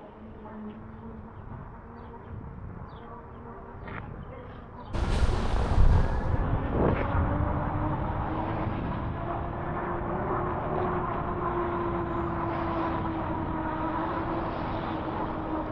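HappyRun G18 Pro e-bike's electric motor whining steadily while riding, its pitch drifting slightly with speed, over wind and road noise that jumps up suddenly about five seconds in.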